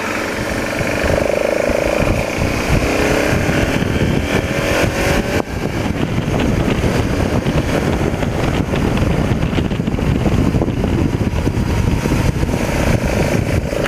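BMW F650 GS motorcycle engine running under way, its pitch rising as it pulls, with a brief dip about five seconds in, under heavy wind rush on the camera microphone.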